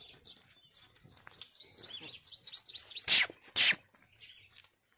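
A small bird singing a quick run of repeated high chirps, several notes a second, fading out about three seconds in. Near the end come two short, loud hissing bursts about half a second apart.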